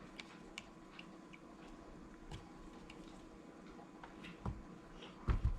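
Faint, scattered light clicks and taps of a small wooden toy car and paintbrush being handled while it is painted, with a few soft low bumps near the end.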